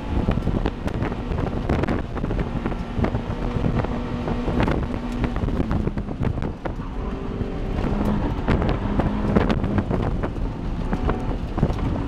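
1990 Honda Civic Si's four-cylinder engine driven hard, heard from inside the cabin. Its note comes and goes as the car accelerates and eases off between the cones, over steady wind noise.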